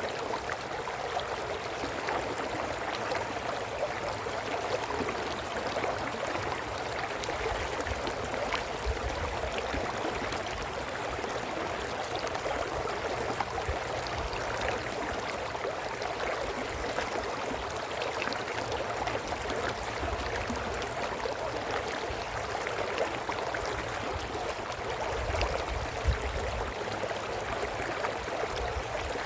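A brook running with a steady babble of water, with occasional low rumbles underneath.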